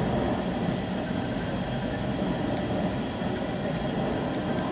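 West Coast Express commuter train running between stations, heard from inside the passenger car: a steady rumble of the wheels on the rails with a little high ticking.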